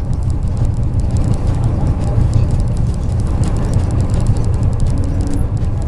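Interior of a MAZ 103 bus under way: steady low engine and road rumble, with a faint steady whine coming in near the end.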